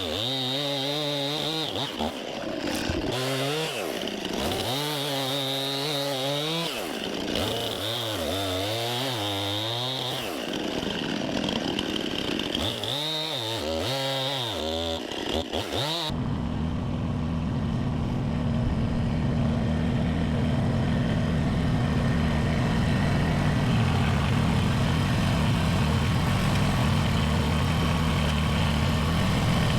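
Gas chainsaw bucking logs, its engine revving up and down again and again as it cuts. About halfway through this cuts off suddenly, and a steady low engine idle runs on in its place.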